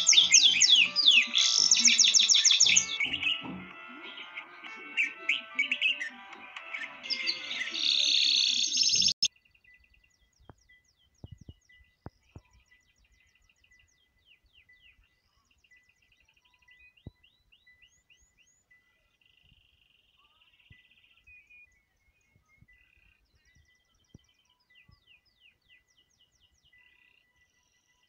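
Birds chirping rapidly over background music, both cutting off suddenly about nine seconds in. After that, only faint, scattered bird chirps are left.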